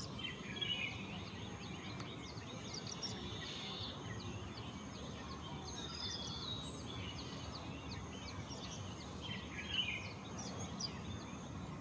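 Small birds chirping and twittering, many short high chirps and a few brief warbled phrases scattered throughout, over a steady low background rumble.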